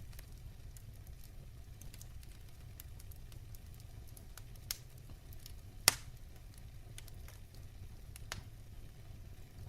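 Wood fire in a fireplace crackling over a steady low rumble, with scattered pops; the loudest pop comes about six seconds in.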